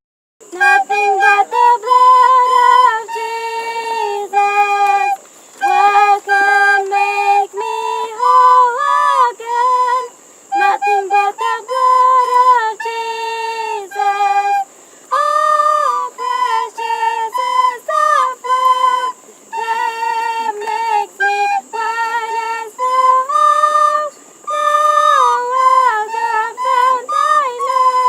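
High-pitched voices singing a melody, with held notes in phrases broken by short pauses.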